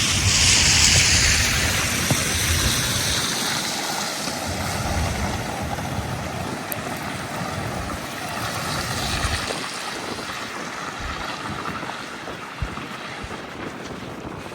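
Outdoor city-street noise: an even rushing hiss, loudest in the first couple of seconds and then slowly easing off, with low buffeting underneath.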